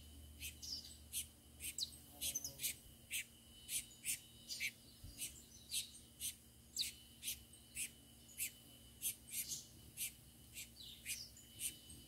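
Birds chirping: short high chirps repeated fairly evenly, two or three a second, with a few brief falling whistles mixed in, over a faint steady high hum.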